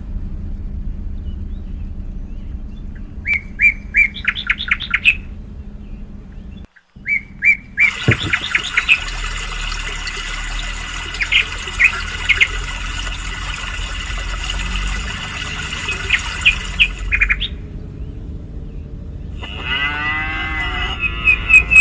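Songbirds chirping in quick repeated series of high notes, densest through the middle, over a steady low rumble, with a brief cut to silence about a third of the way in.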